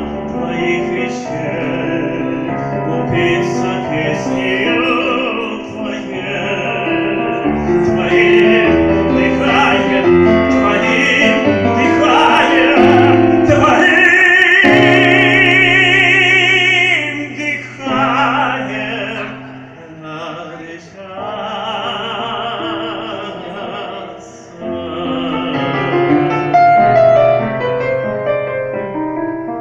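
Operatic singing by a young singer over piano accompaniment; about halfway through the voice holds a long high note with vibrato, and then the piano carries on with lighter singing.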